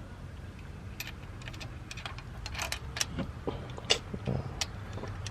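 Irregular metallic clinks and scrapes of pliers working among the valve train inside an open engine cylinder head, fishing out a dropped part, over a steady low hum.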